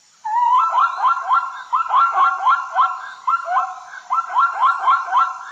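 An animal giving a rapid series of short, rising, siren-like calls, several a second, with a couple of brief pauses.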